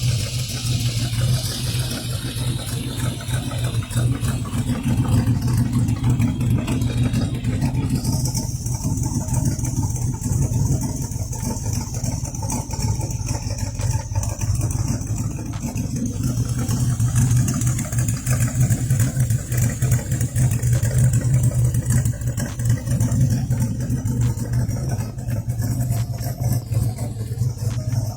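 Ford T-Bucket hot rod's 355 Chevy small-block V8 running steadily with a deep, even exhaust note.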